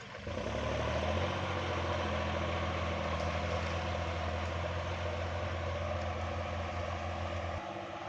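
Kubota MU4902 tractor's diesel engine running steadily under load while pulling a disc plough through a paddy, in third gear. Its deepest part drops away near the end.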